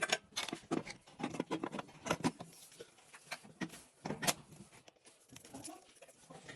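Irregular light clicks and taps of hand work on an engine, several a second, with a louder knock a little after four seconds in.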